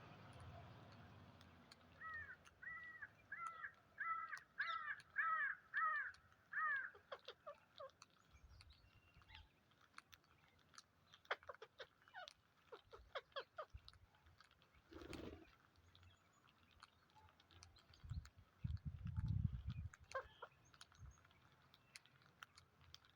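A bird calling: a run of about eight harsh, repeated calls, a little under two a second, then a few shorter, fainter calls. Low thuds come twice near the end.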